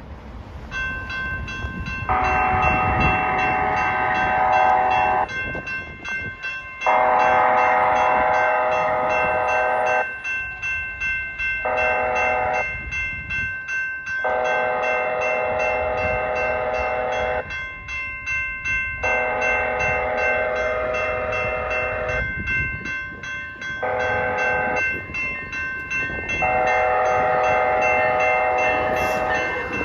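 Amtrak passenger locomotive's air horn sounding a series of blasts, mostly long of about three seconds with a shorter one between, the standard grade-crossing warning pattern, as the train approaches the crossing. Under it the crossing's warning bell rings steadily.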